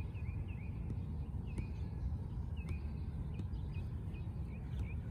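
Small birds chirping: short, quick notes repeated every half second or so, over a steady low outdoor rumble, with a few faint ticks.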